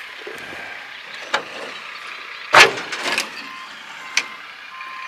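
Outdoor truck-yard noise with a loud, sharp, brief burst about halfway through and a few weaker knocks. Near the end a reversing beeper starts sounding, evenly spaced beeps from a vehicle backing up.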